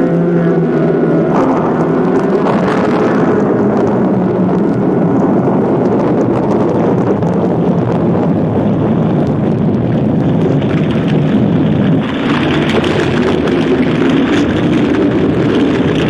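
Storm wind blowing hard and steadily, a dense rushing noise with a low moaning pitch that slowly rises and falls.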